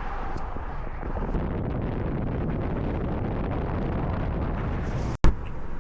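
Steady road and wind noise of a car driving, heard from the cabin. Near the end it cuts out for an instant and comes back with a sharp click.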